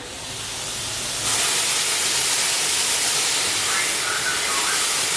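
Steam locomotive letting off steam: a steady hiss that grows and steps up sharply about a second in, then holds.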